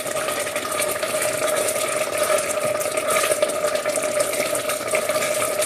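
Risotto simmering in the pan, a steady bubbling hiss with light crackle, over a steady hum.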